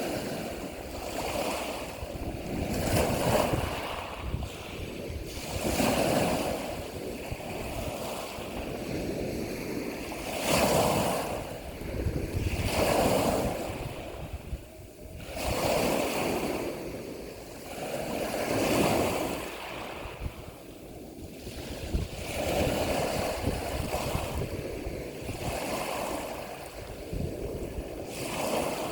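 Ocean surf: waves washing in, the sound swelling and falling back every few seconds.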